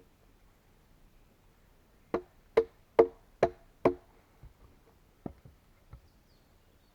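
Five quick, sharp knocks of a tool striking wood, a little more than two a second, each with a short woody ring, followed by a few fainter taps.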